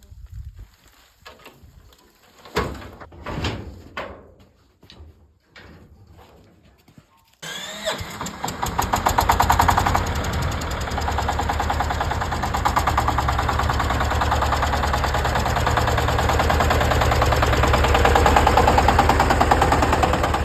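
A few scattered knocks and clunks, then about seven seconds in a tractor engine starts up: a quick rising whine and the engine catches. It then runs steadily with a fast, even chugging.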